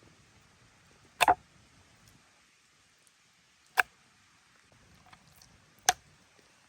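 Three sharp knocks about two seconds apart, the first a quick double, against a quiet background.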